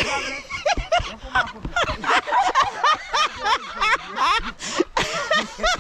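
People squealing and laughing in short, high-pitched cries, with a few wordless exclamations.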